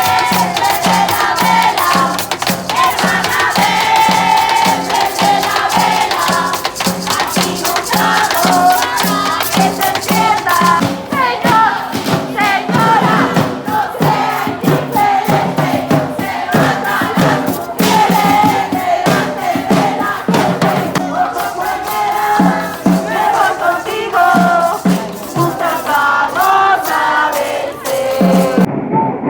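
A crowd of women chanting protest slogans together, with a drum beating a steady rhythm and rattles shaking.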